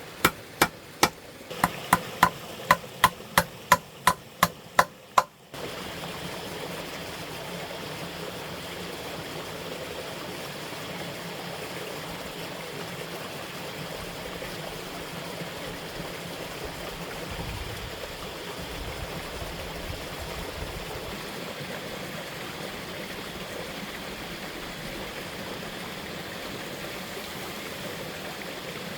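A run of sharp, evenly spaced knocks, about three a second, that stops abruptly about five seconds in. After it, a steady rush of flowing water.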